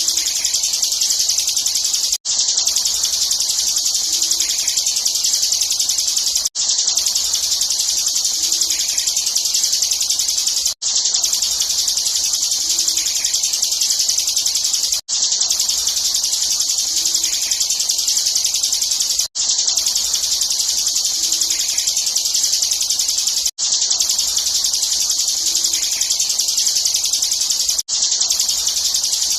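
Bar-winged prinia (ciblek) singing a rapid, unbroken buzzing trill, the 'ngebren' song used to train contest birds. The song breaks off for a split second about every four seconds.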